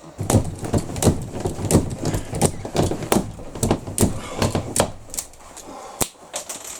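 A rapid run of sharp knocks, about three a second for some five seconds, then a single knock near the end.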